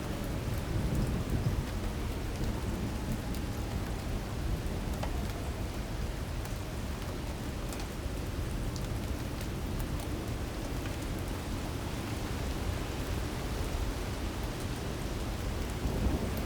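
Heavy rain pouring steadily in a thunderstorm, with a deep low rumble underneath and scattered drop ticks. It swells a little near the end.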